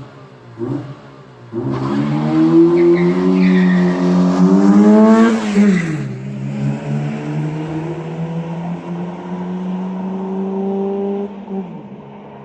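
Honda D16Y7 1.6-litre SOHC four-cylinder in an EJ6 Civic with a cold air intake: two quick revs, then a launch with the revs climbing hard through first gear. The revs drop at a gear change about five and a half seconds in, then rise slowly through the next gear as the car grows fainter, dropping again near the end.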